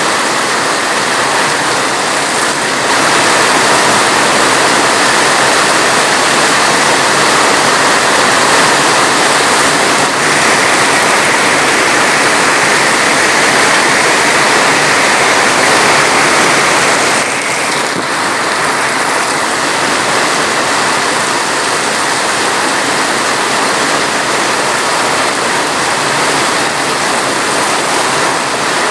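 Heavy rain falling steadily, an even rushing hiss. It gets a little louder about three seconds in and drops back about seventeen seconds in.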